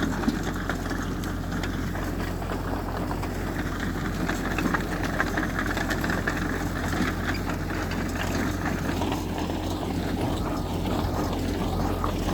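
Heavy diesel earthmoving machinery, such as a bulldozer or dump truck, running steadily with a constant low drone.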